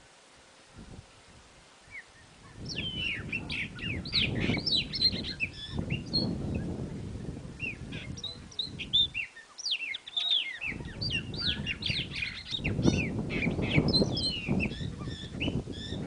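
Birds calling in a rapid, overlapping run of high, sharp downslurred notes. The calls start about two and a half seconds in and pause briefly around the middle, over a low rumble of background noise.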